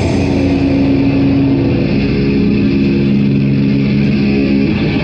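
Amplified electric guitar and bass sustaining a loud held chord after a fast heavy metal passage, the notes ringing steadily without drums before cutting off near the end.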